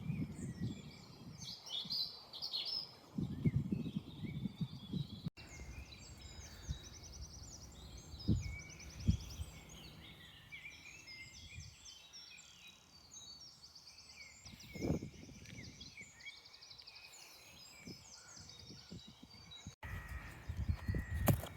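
Several small birds singing, with overlapping chirps and rapid trills. Now and then a low thud sounds beneath the song.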